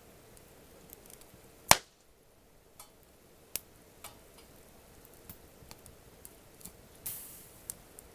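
Wood campfire crackling with scattered sharp pops. One loud pop comes a little under two seconds in, and a short hiss flares up and fades about seven seconds in.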